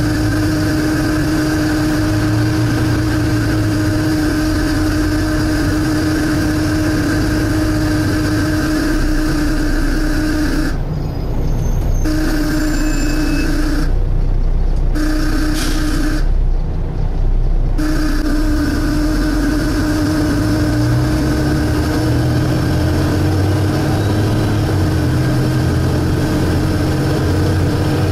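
Volvo B7TL double-decker bus heard from on board: the engine runs with a steady drone and a strong constant hum. Three times around the middle, the higher part of the sound briefly cuts out for about a second.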